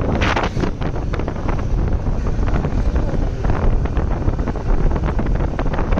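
Heavy wind buffeting the microphone, with the running and road noise of a moving vehicle underneath.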